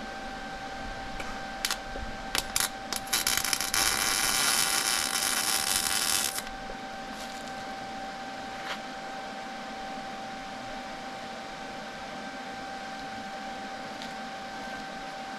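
A few short hissing sprays, then one steady hiss of spray lasting nearly three seconds, over a steady high electrical hum.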